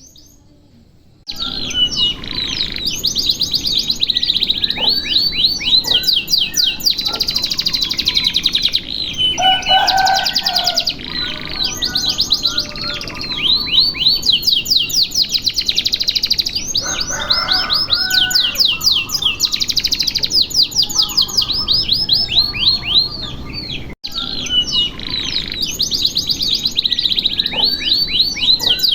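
Domestic canary singing a long, nearly unbroken song of fast trills and rolls, starting about a second in, with a brief cut about 24 seconds in.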